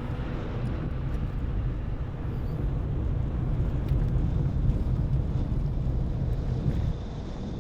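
Car driving along a road: a steady low rumble of engine and tyres that grows louder about three seconds in and drops suddenly near the end.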